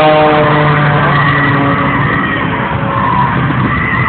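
A propeller aerobatic plane's engine drones as it flies by. Its pitch dips slightly and fades in the first second, then gives way to a steady rushing roar.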